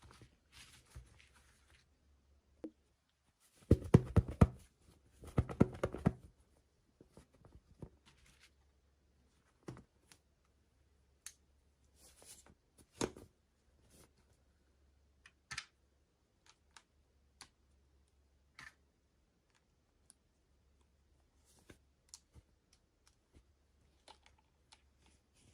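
Small plastic toy pieces and packaging being handled: scattered clicks and taps, with a dense run of clicking and rattling about four to six seconds in.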